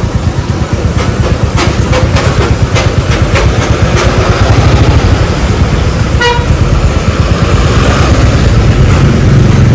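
Motorcycle engine running while riding, a steady low pulsing that grows a little louder toward the end, with a short vehicle horn toot about six seconds in.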